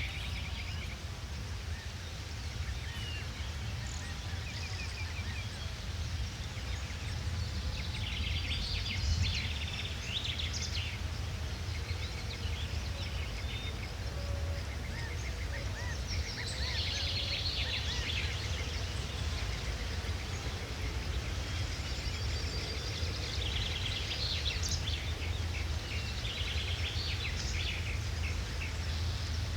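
Small birds calling in scattered bursts of quick chirps and trills, over a steady low rumble.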